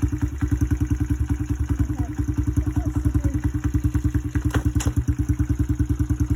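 Small dirt bike engine idling in neutral, a steady, rapid putter at an even speed.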